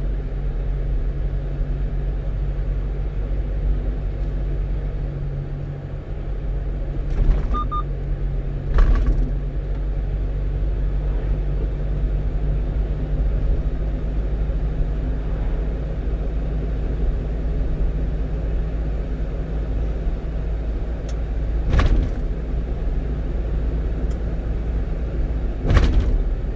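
A 1-ton truck driving on the road: a steady engine and road rumble, with a few short sharp thumps, about four, spread through it.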